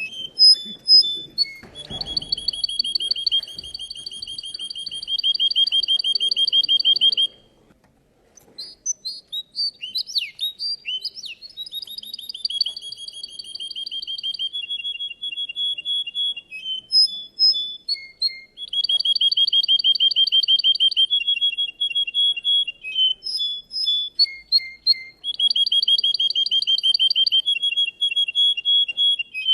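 Russian canary singing long phrases of fast, evenly repeated trills, linked by short chirps and notes that change in pitch. The song breaks off briefly about seven seconds in.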